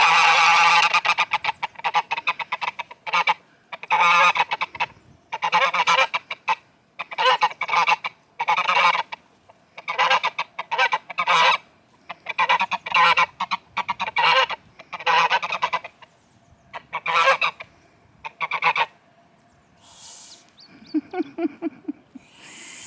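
Domestic geese honking loudly at a person, a run of separate honks about one a second, then falling quiet about 19 seconds in. This is the loud honking they make when 'shouting' at someone close by.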